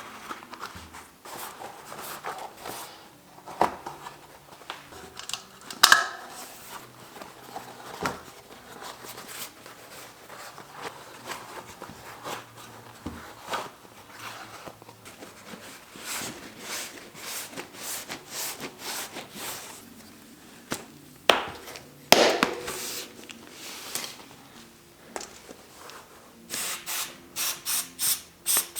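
Hand work on a bicycle in a small room: scattered clicks, knocks and rubbing of tools against parts, with a sharp knock about six seconds in and another past twenty seconds. Near the end comes a run of quick repeated strokes, about three a second.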